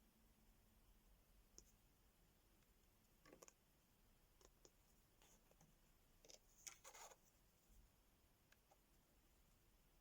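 Faint, scattered small clicks and taps of diamond painting work, with a short scratchy cluster of clicks about two-thirds of the way through. Between them it is near silence.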